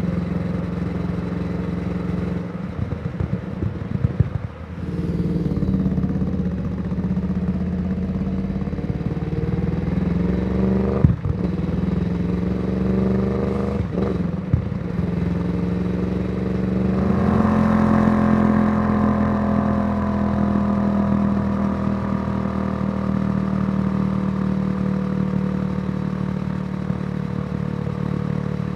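Yamaha YZF-R1's crossplane inline-four running through a Yoshimura exhaust under way. Engine pitch climbs as it accelerates about a third of the way in, two short sharp cracks come around the gear changes, and it settles into a steady run in the second half.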